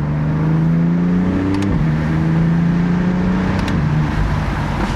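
BMW F80 M3's twin-turbo S55 inline-six pulling hard, its note climbing in pitch, dropping abruptly as it shifts up about a second and a half in, then climbing again until another drop near the end.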